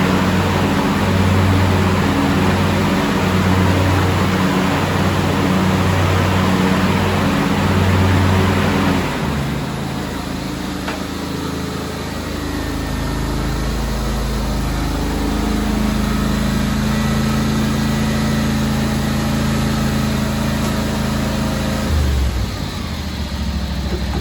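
John Deere X500 garden tractor's Kawasaki FH721V two-cylinder engine running. For the first nine seconds its sound swells and falls about once a second, then it settles to a lower, steadier tone, changing again a couple of seconds before the end.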